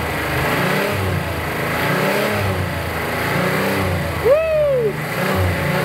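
Buick Grand National's turbocharged V6 running warm and blipped by hand at the throttle, its revs rising and falling several times. There is no rod knock at the revs where it used to knock. A brief whistle rises and falls about four seconds in.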